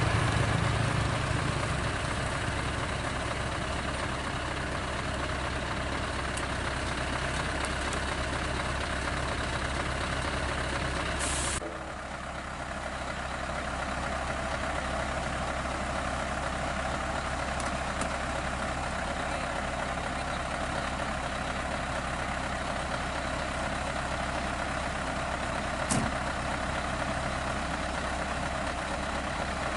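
Heavy truck engine running steadily, with a short hiss about eleven seconds in, after which the sound drops a little.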